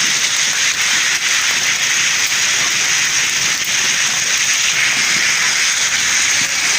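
A heavy rain and hail storm: a dense, steady hiss of precipitation pelting down on surfaces.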